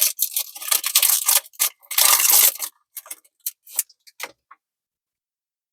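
Foil Crown Zenith booster pack crinkling and being torn open, with the loudest rip a couple of seconds in, then a few light clicks.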